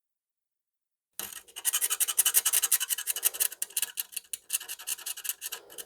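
Fine sandpaper scrubbed quickly back and forth over a circuit board, starting about a second in after a silent gap. It is removing NiCad battery-leak corrosion from the board so that solder will stick again.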